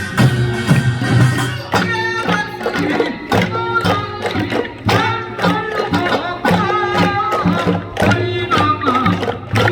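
Korean folk music: drums and other percussion beating a steady rhythm under a wavering melody line, sung or played.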